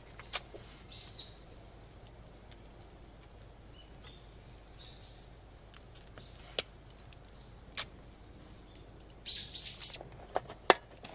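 Birds chirping intermittently, with a burst of quick rising and falling calls a little before the end, over a quiet background broken by several sharp clicks.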